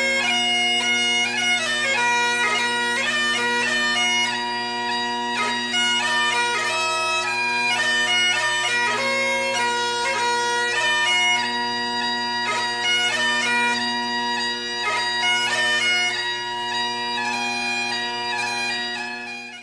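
Bagpipe music: a melody of quickly changing notes played over steady, unbroken drones.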